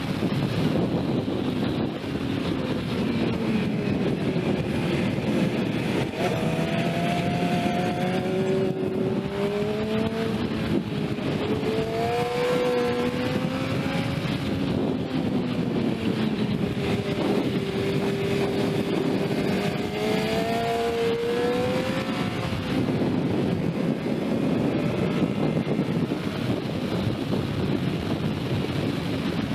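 Sport motorcycle engine ridden hard, its pitch rising and falling over and over as the rider opens and closes the throttle, under a heavy rush of wind on the microphone.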